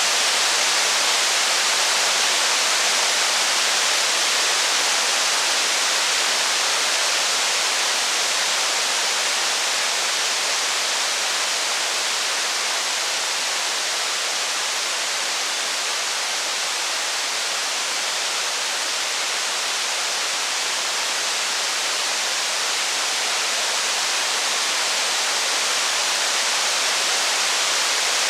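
Steady heavy rain, an even hiss with no thunder or fire crackle standing out.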